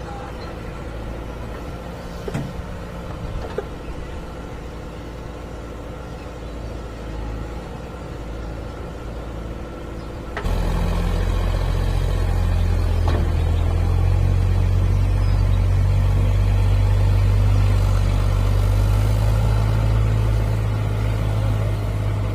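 Heavy diesel vehicle engine running steadily, then jumping abruptly louder and deeper about ten seconds in and staying loud.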